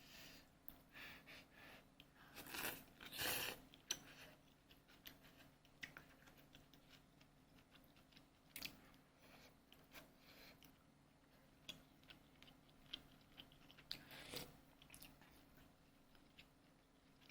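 Faint, scattered crunching and light clicking, busiest about three seconds in and again near fourteen seconds, over a steady low hum.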